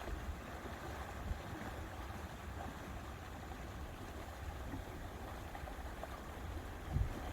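Lake water lapping with wind rumbling on the microphone; a stronger gust comes near the end.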